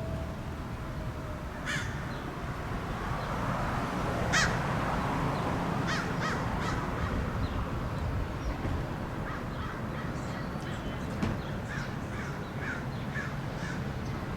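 A bird calling in short harsh calls: one about two seconds in, the loudest about four seconds in, a few more around six seconds, and a run of several in the last third. Under them runs a steady low rumble of background noise.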